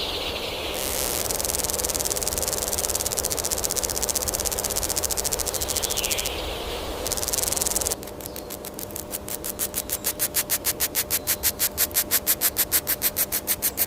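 Insects calling: a dense, high-pitched buzzing trill. About eight seconds in it cuts to a rapid, evenly pulsed call that grows louder.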